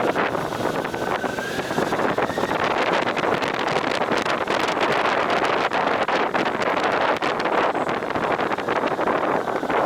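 Wind buffeting the microphone of a riding motorcycle, a steady loud rush with engine and road noise underneath.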